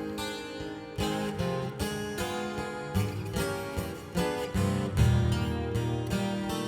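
Twelve-string acoustic guitar playing chords through a shimmer reverb pedal, new chords struck about once a second and left ringing.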